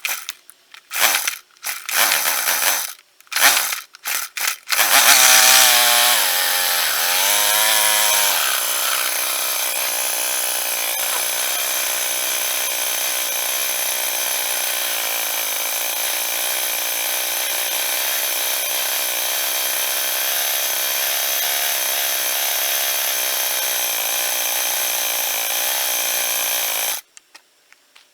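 Cub Cadet BC490 trimmer's 25cc four-stroke engine giving several short bursts before it catches about five seconds in. Its speed wavers for a few seconds, then it runs steadily for about twenty seconds and cuts off suddenly near the end.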